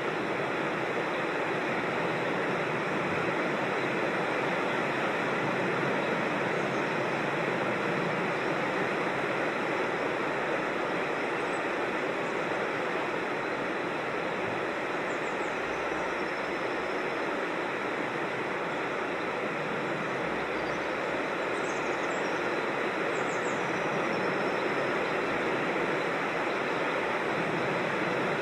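Steady rush of flowing creek water, an even continuous noise with no breaks. A few faint, high, falling chirps from small birds come around the middle and again later on.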